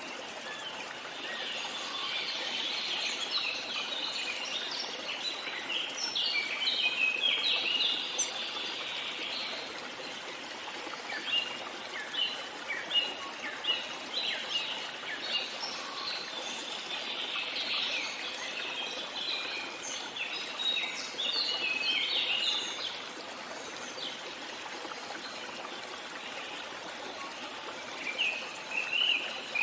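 Small songbirds chirping in quick bouts, with short pauses between, over a steady rush of flowing water.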